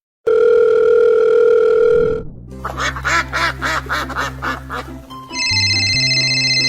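Edited-in music and comic sound effects: a flat buzzing tone held for about two seconds, then a quick run of quack-like calls over a low drone, then steady high electronic tones.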